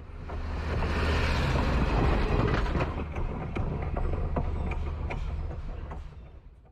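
A train rolling along the track: a steady low rumble with many sharp clicks from the wheels on the rails, swelling in about the first second and fading out near the end.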